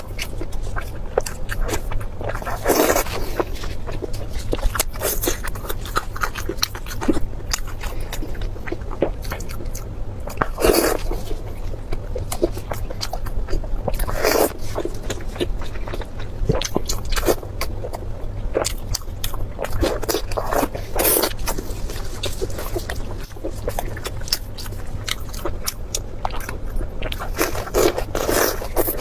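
Close-miked eating: continual chewing and mouth clicks, with a louder crunching bite every few seconds. A steady low hum sits underneath.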